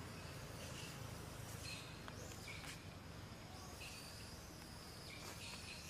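Faint outdoor ambience: birds giving short, high chirps every second or so over a steady low rumble.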